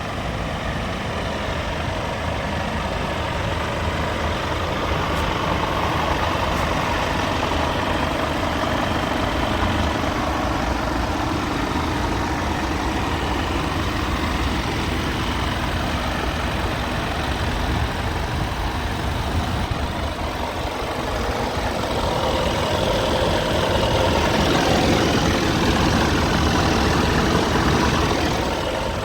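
Scania P320 tractor unit's 9-litre five-cylinder diesel engine idling steadily, growing somewhat louder for a few seconds near the end.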